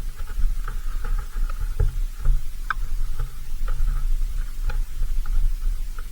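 Irregular light taps and clicks close to the microphone, typical of a small animal pecking or gnawing at seed on a bird feeder, over a steady low wind rumble.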